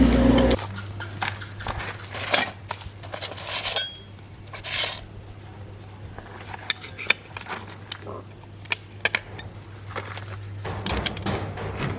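An engine running stops abruptly about half a second in. Then come scattered metal clinks and knocks of tools and parts being handled, over a steady low hum.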